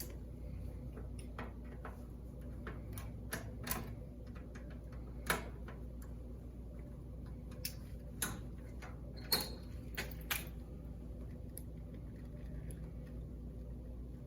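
A dozen or so light clicks and knocks, scattered irregularly over about ten seconds, above a steady low machine hum.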